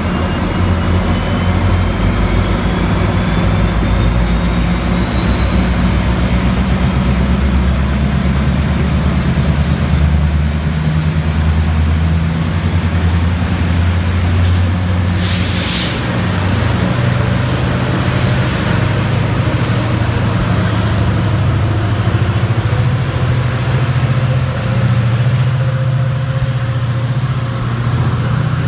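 Diesel train locomotive engine running loudly with a deep, steady hum. A short hiss of air, typical of an air brake release, comes about halfway through.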